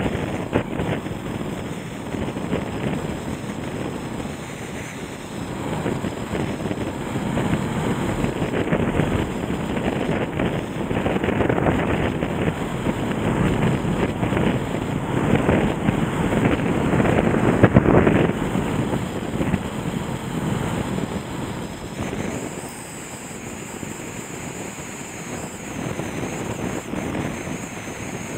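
Floodwater of the swollen Nagara River rushing past in spate after a typhoon, a continuous noise that swells and eases, with wind buffeting the microphone and a single short knock about 18 seconds in.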